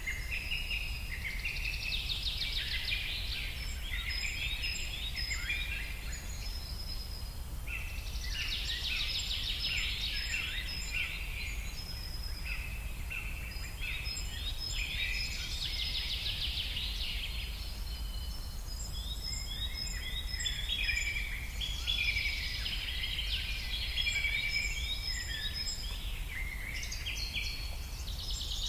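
Birds chirping and chattering in repeated bursts of quick high notes and short trills, over a steady low hum.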